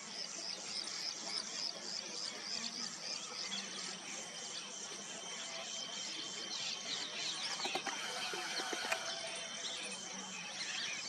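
Outdoor nature sound of many small birds chirping and insects calling. A high, evenly repeating pulse runs through the first few seconds at about three a second, with short chirps scattered throughout.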